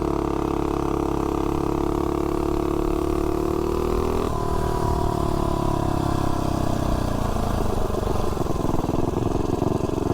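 Tillotson 225 single-cylinder four-stroke mini bike engine with a Volts 330 cam at full throttle in a 0–30 mph launch, its pitch climbing steadily for about four seconds. Then the throttle comes off suddenly and the engine winds down as the bike coasts, settling to a lower, rougher note near the end.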